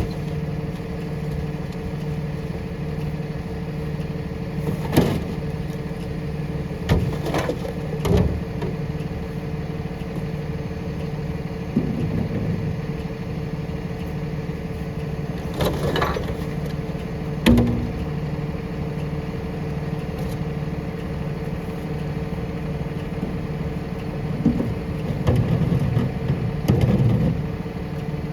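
Rear-loader garbage truck's engine running steadily, with several sharp bangs and a stretch of clatter as heavy recycling goes into the hopper.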